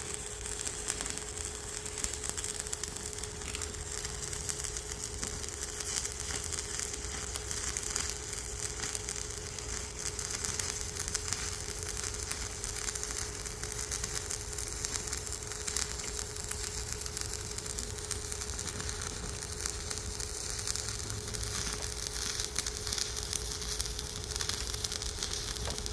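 Stick (MMA) arc welding: the electrode arc crackling and sizzling steadily over a continuous weld run, with a steady hum underneath.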